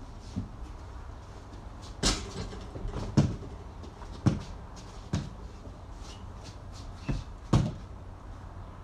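A basketball bouncing on a hard floor, about seven thuds at uneven intervals of roughly a second, the one about two seconds in the loudest.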